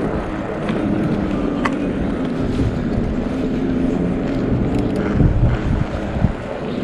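Riding noise from an electric bike in motion: wind buffeting the microphone and tyre rumble, with a faint steady hum underneath and a few light clicks.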